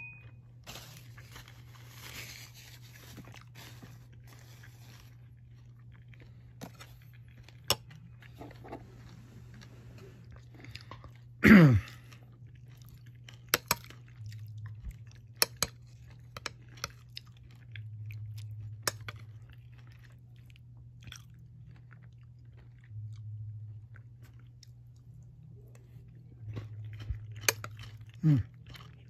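Close-up chewing and crunching of a cucumber salad with chicken feet, scattered sharp crunches over a steady low hum. A loud sound falling in pitch comes about twelve seconds in, and a fainter one near the end.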